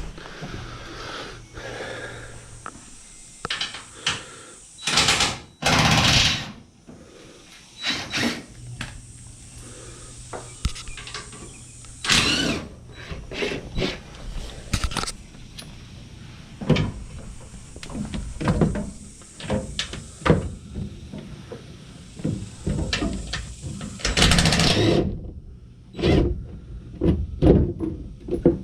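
Metal clinks, knocks and rattles of hand tools loosening the bolts on a pickup's fuel tank cover, with a few louder noisy bursts of about a second each. A steady low hum runs underneath.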